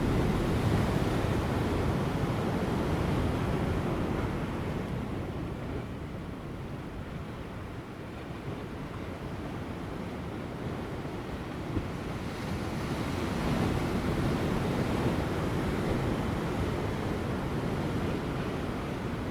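Large ocean waves breaking on rocks, a continuous rumbling surf that swells near the start and again about two-thirds of the way through, easing in between. Light wind on the microphone.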